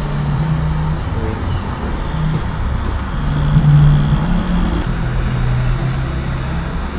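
Electric tattoo machine buzzing steadily as it runs, its pitch dropping a little about five seconds in.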